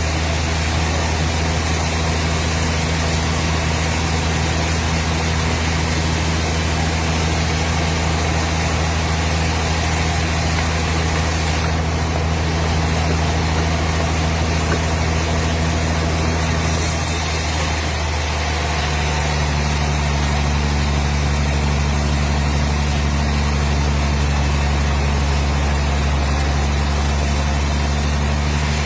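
An engine or motor running steadily with a low drone, its pitch dropping slightly about eighteen seconds in.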